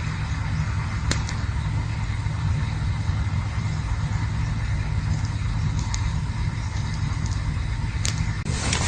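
Campfire burning with a steady low rumble and a few sharp crackles. A louder rush of noise starts just before the end.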